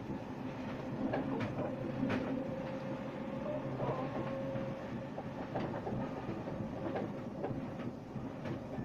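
RER B commuter train running, heard from inside the carriage: a steady rumble of the wheels on the rails with scattered sharp clacks. A faint steady whine sounds over the rumble from about a second in to about halfway through.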